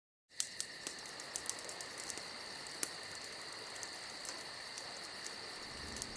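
Crickets chirping in a steady high trill, starting abruptly out of silence just after the beginning.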